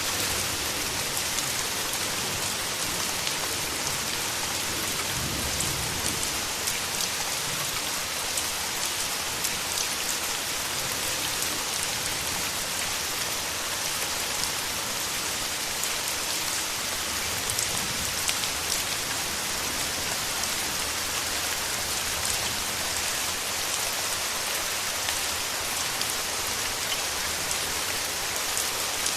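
Steady rain falling, a dense even hiss with many individual drop hits heard in it.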